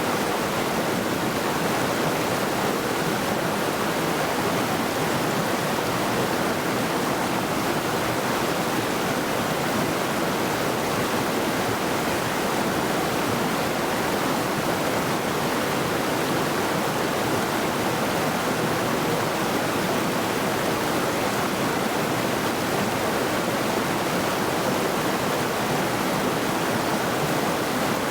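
A mountain river rushing over rocks: a steady, even roar of flowing water that does not change.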